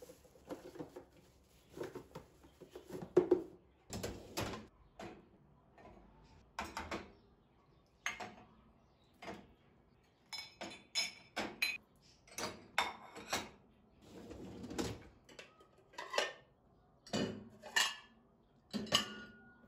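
Dishes and cutlery being handled: irregular clinks and knocks as pieces are picked up and set down, a few of them ringing briefly.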